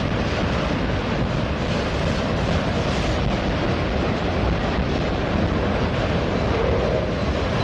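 Freight train of autorack cars rolling past close by: a steady, loud rush and rumble of steel wheels on rail with no breaks.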